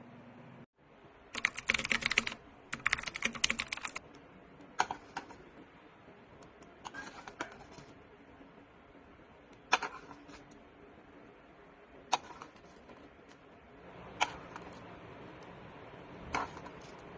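Rapid light clicking and clattering in two bursts, then a few single sharp clicks spaced a couple of seconds apart.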